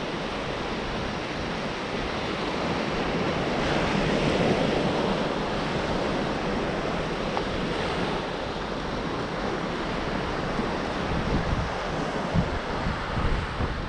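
Gulf surf breaking and washing on a sandy beach, with wind buffeting the microphone in low gusts near the end.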